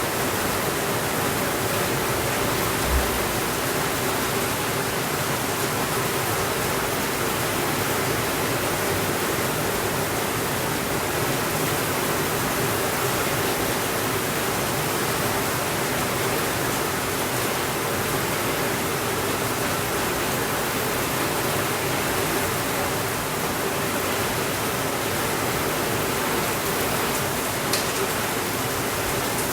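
Steady rainfall, an even dense hiss without let-up, with a brief low thump about three seconds in and a faint click near the end.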